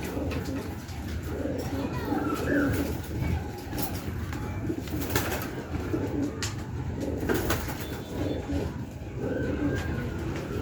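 Domestic pigeons cooing over and over in low, throaty pulses, with a few sharp clicks or taps in the middle stretch.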